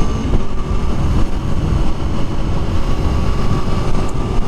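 Aprilia Tuono motorcycle running steadily while being ridden, with a constant mix of engine and road noise.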